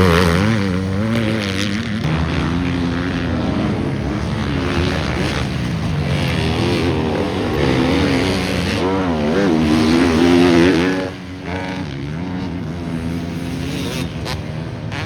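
Motocross bikes running laps on a dirt track, their engines revving up and down over and over as the riders work the throttle. The sound builds to its loudest about ten seconds in, then drops away sharply just after.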